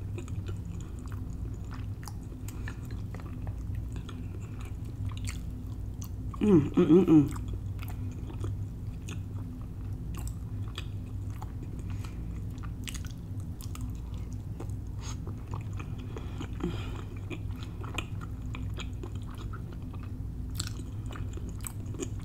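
Close-miked chewing of mouthfuls of food, wet and smacking, with many small clicks of the mouth. About six or seven seconds in comes a brief loud hummed "mmm" of enjoyment. A steady low hum sits underneath.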